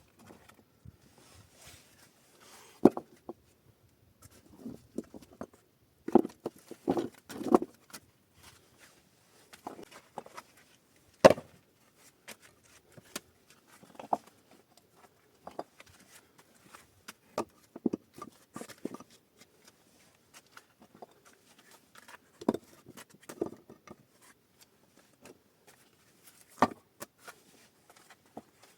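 Irregular knocks, thuds and clatters of hands-on work, materials being handled and set down, a dozen or so sharp impacts spread unevenly, the loudest about eleven seconds in.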